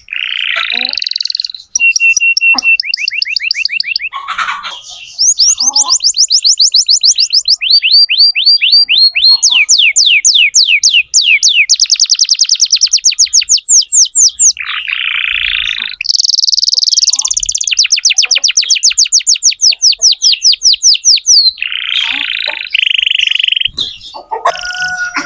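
Domestic canary singing loudly in a string of rapid trills. Each trill is a run of quickly repeated high notes, about eight to ten a second, sweeping downward, and a new trill takes over every second or two. Short harsh, buzzy phrases come in between.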